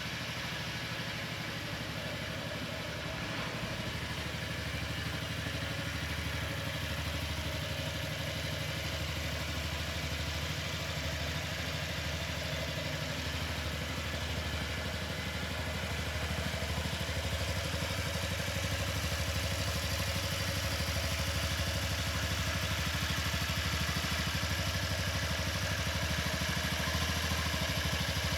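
Honda Zoomer's 49 cc four-stroke single-cylinder scooter engine idling steadily, growing slightly louder partway through.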